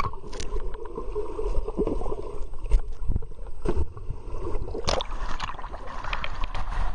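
Pool water splashing and sloshing around a kayak as it goes over for an Eskimo roll, with several sharp splashes of the paddle and hull striking the water.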